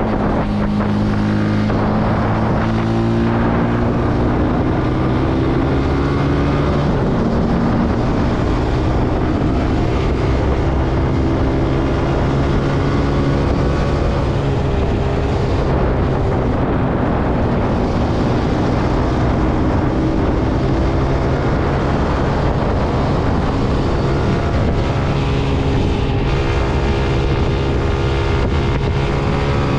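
Zontes C125 125cc engine running under way, its pitch falling and rising as the speed changes.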